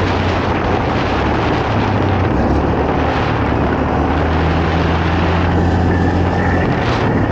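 ATV (quad bike) engine running at speed off-road: a steady low engine drone under loud rushing wind and dirt noise. The engine note holds more evenly from about four seconds in.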